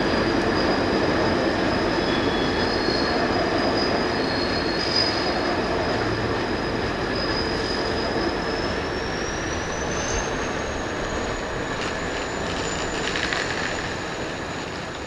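Train of track-machinery wagons rolling past with a steady rumble and a thin, high wheel squeal that rises in pitch about two-thirds of the way through. The sound slowly fades as the train moves away.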